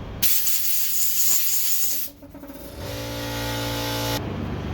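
Air compressor kicking on: a loud hiss for about two seconds, then the motor's steady hum, which cuts off suddenly.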